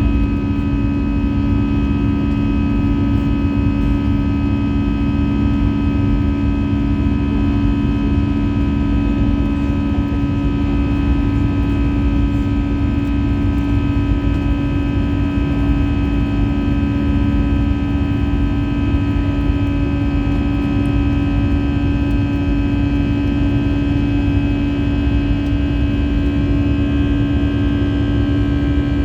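Steady drone inside the cabin of an Airbus A320-214 from its CFM56-5B jet engines: an even rumble with a pair of strong low hums and several fainter held tones above, unchanging throughout.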